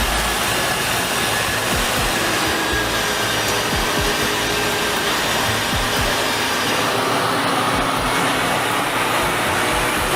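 Heavy transport truck's engine running steadily, with a constant rushing noise.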